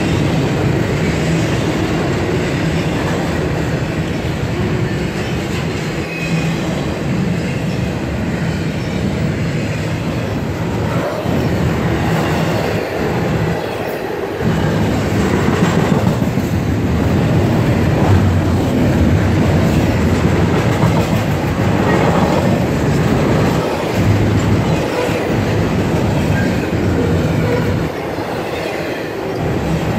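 Double-stack intermodal freight train's well cars rolling steadily past close by, a continuous loud rumble of steel wheels on the rails.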